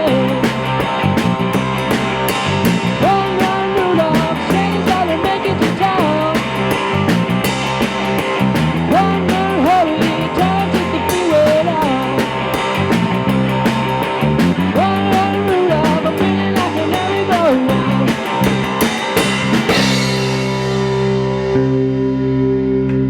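Classic rock band of electric guitar, bass and drum kit playing, with a bending lead line over a steady drum and cymbal beat. About twenty seconds in, the drums and cymbals stop and held guitar and bass notes ring out.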